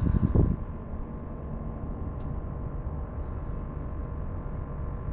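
Steady low drone of a motor, with a couple of low thumps in the first half second.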